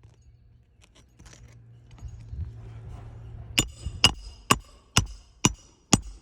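Six sharp, evenly spaced hammer strikes, about two a second, each with a short metallic ring, starting a little past halfway, after some rustling handling.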